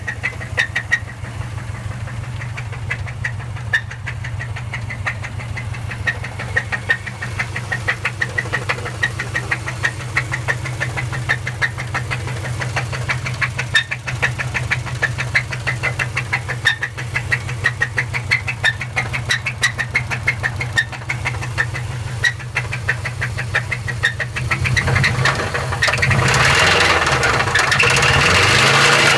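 Subaru Forester SF5's EJ20 flat-four engine running with a rapid, regular knock, the knock following the engine speed; near the end the revs rise and it gets louder. The owner fears the engine is dead.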